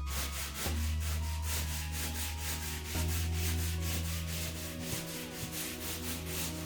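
Sandpaper rubbed back and forth over dried patching plaster on a ceiling crack repair, in quick, even, scratchy strokes, as the patch is sanded flat. A low droning tone runs underneath and shifts pitch twice.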